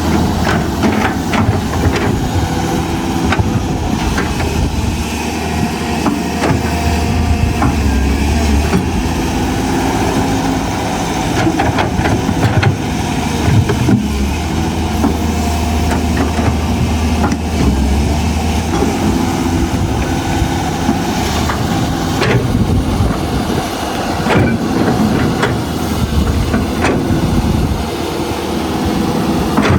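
Excavator's diesel engine running steadily, its low note shifting a couple of times as the load changes, with scattered short clanks and knocks of the machine working.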